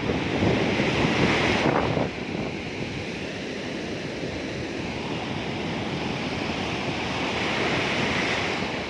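Sea waves surging onto the shore, with wind rumbling on the microphone. The wash is loudest in the first two seconds, then drops to a steady hiss of surf.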